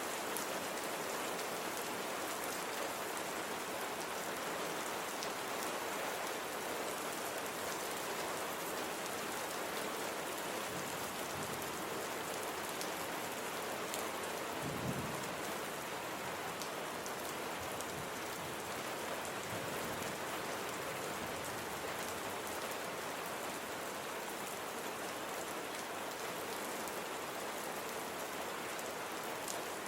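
Steady rain falling on a surface, an even hiss with scattered drop ticks, and a brief low rumble about halfway through.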